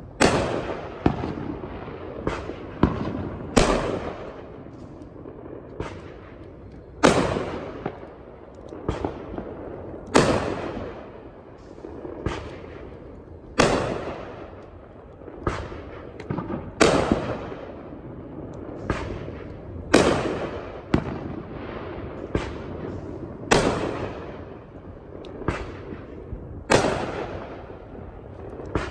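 Aerial fireworks shells bursting: a loud boom about every three seconds with smaller pops in between, each bang trailing off in an echo.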